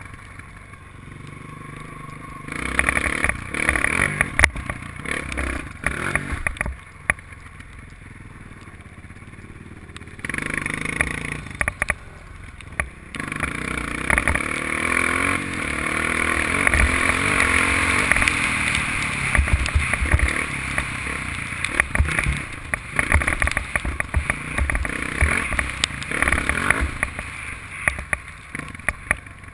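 Honda dirt bike engine heard through an onboard GoPro while the bike is ridden. It is quieter at first, revs up and down in bursts, then runs louder and steadier through much of the second half, with its pitch rising and falling.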